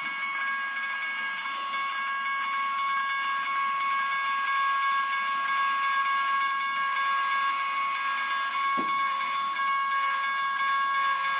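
Amtrak Vermonter passenger train running by with a steady hiss and a high, steady whine of several tones held together.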